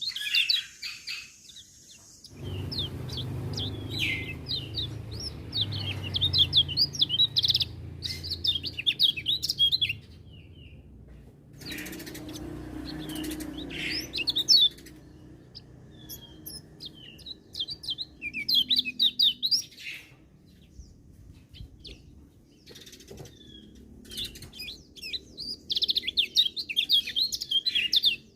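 Kecial kuning, a small yellow white-eye, singing fast high twittering phrases in several bursts with short pauses between them. A low rumble sits under some of the phrases.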